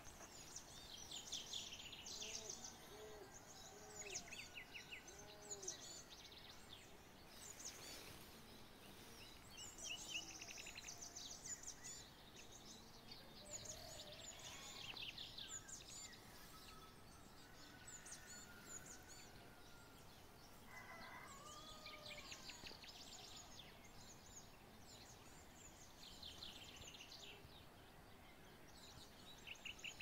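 Faint birdsong: several birds chirping and trilling in quick high runs now and then, with a few lower, softer calls among them over a quiet outdoor background.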